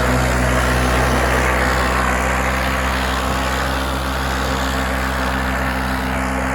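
A vehicle engine running at a steady, unchanging speed, a constant drone.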